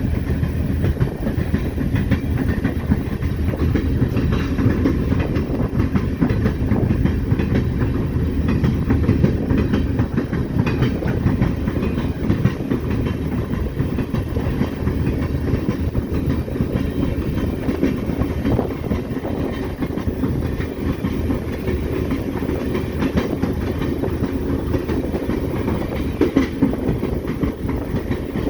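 EMD SD40-2 diesel locomotive rolling down the track, heard from the outside of its short nose: a steady low rumble with wheels clattering over the rails.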